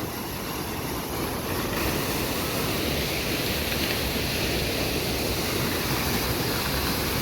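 Rudranag waterfall rushing steadily, a full even roar of falling water that turns a little louder and brighter about two seconds in.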